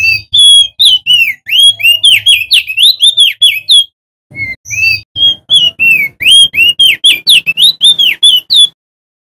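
Male opior jambul singing: two loud runs of quick, whistled notes that sweep up and down, with a short break between them.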